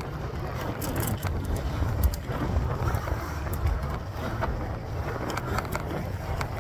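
Wind buffeting the microphone and tyre noise from a mountain bike being ridden, with scattered small clicks and rattles.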